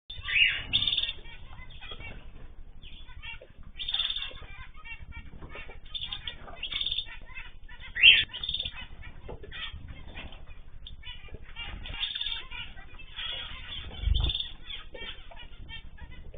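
A mix of small cage birds chirping and calling together without pause, with louder calls every few seconds and wing flutters among them.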